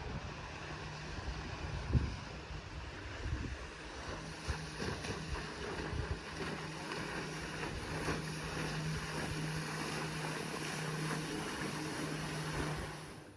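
Small electric boat under way: water rushing and wind buffeting the microphone, with the 20 hp electric outboard's steady low hum from about four seconds in. It cuts off suddenly at the end.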